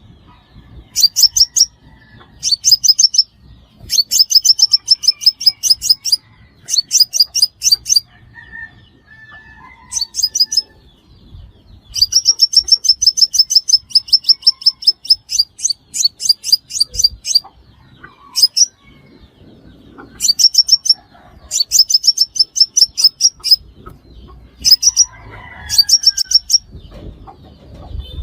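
Sunbird song: rapid trills of thin, high notes, about ten a second, given in phrases of half a second to two seconds with short pauses, and one long trill of about five seconds near the middle.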